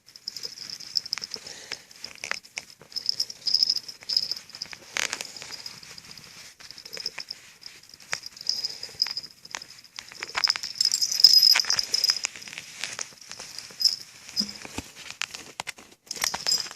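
A steady, high-pitched chirring of insects, overlaid with irregular rustling, crinkling and scratchy clicks of close handling and movement.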